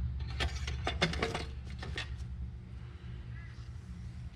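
A handful of light clicks and knocks in the first couple of seconds, from parts being handled at the lawn tractor's engine during an oil-level check, over a steady low hum.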